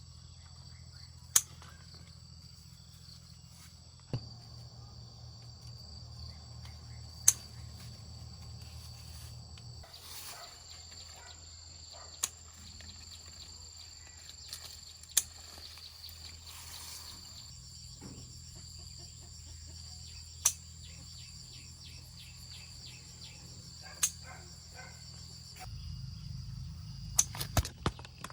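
Insects chirping steadily, with a sharp click or knock every few seconds, the loudest sounds, and several close together near the end.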